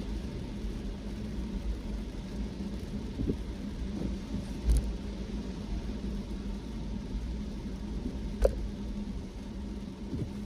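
Car driving on a wet road in the rain: steady low road and tyre rumble with a faint hum, broken by a few short knocks, the loudest about eight and a half seconds in.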